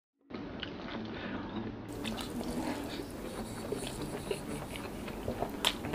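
Close-miked eating of rice and sardines by hand: wet chewing and mouth sounds with many small clicks, starting suddenly after a moment of silence, with one sharper click near the end.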